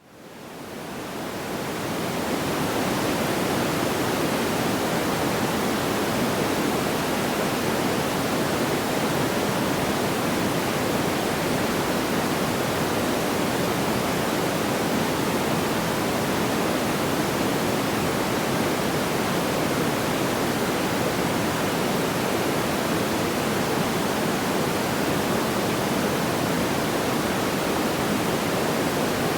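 Steady, even rushing noise like pink noise, fading in over the first two seconds and then holding level, with no separate pops or crackles.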